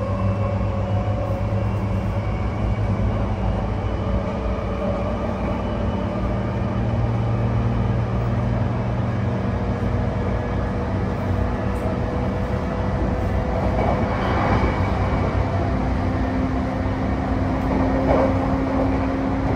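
Running sound inside an E235-1000 series electric train car: steady humming tones from the Mitsubishi full-SiC VVVF inverter and traction motors over wheel and rail rumble, with a couple of brief rattling patches in the second half, as the train approaches its next stop.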